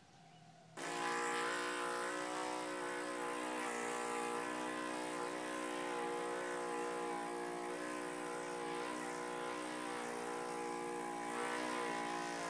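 A player's lips buzzing in a steady raspberry, the lip vibration that makes the didgeridoo's drone, held on one even pitch for about eleven seconds. It starts about a second in and stops near the end.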